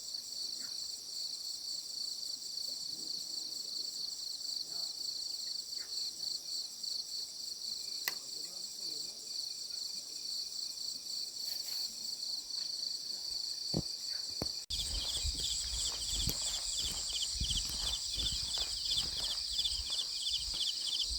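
Insects chirring steadily in a high, pulsing chorus. About two-thirds of the way through the sound jumps, a second, lower pulsing insect call joins in, and there is some rustling and knocking.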